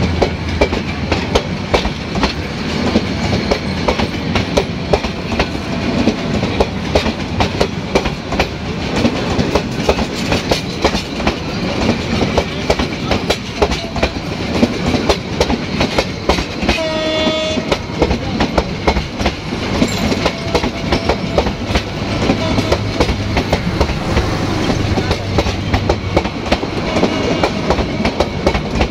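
Passenger coaches of an intercity train rolling past close by: a steady rumble with rapid, continuous clickety-clack of the wheels over the rail joints. A short pitched tone sounds once, about halfway through.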